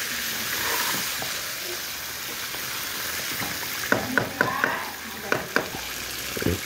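Chicken pieces in masala sizzling as they fry in a large aluminium pot while being stirred with a spatula. From about four seconds in comes a quick string of sharp clicks and knocks as the metal spatula strikes the side of the pot, with one more just before the end.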